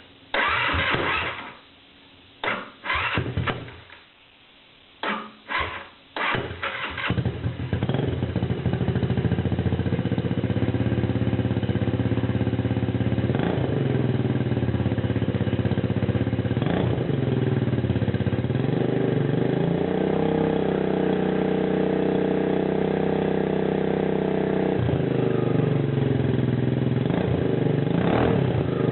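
150cc Chinese scooter engine breathing through a homemade exhaust of black-pipe fittings and a lawnmower muffler: several short bursts of cranking before it catches about seven seconds in, then it runs a little loud, with brief throttle blips and a few seconds held at higher revs partway through.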